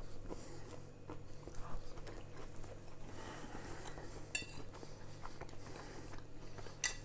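A man quietly chewing a mouthful of shrimp and lettuce, with a metal fork clinking against the plate twice, about four seconds in and again near the end.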